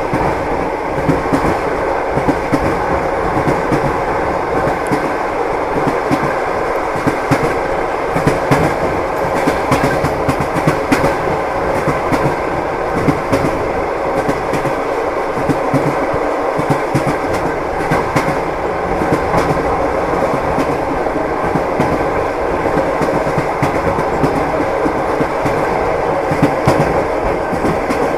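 Train wheels clattering over the rails: a steady rumbling run with frequent clicks and knocks of the wheels on the rail joints.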